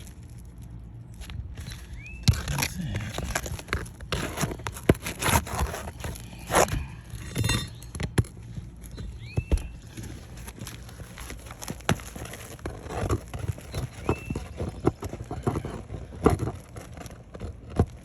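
Pry bar working under asphalt roof shingles: irregular scrapes, clicks and knocks of metal on shingle and nail as the sealed shingle is lifted and nails are pried out.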